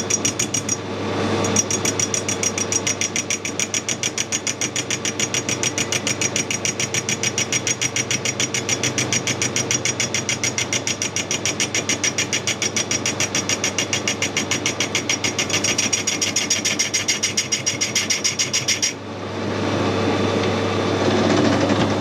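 A small machine running with a fast, even pulsing of about six beats a second, which stops abruptly near the end.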